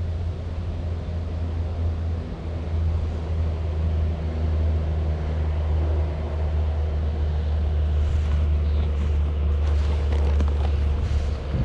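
Kawasaki Vulcan Nomad 1600's V-twin engine running steadily at low revs, an even low drone.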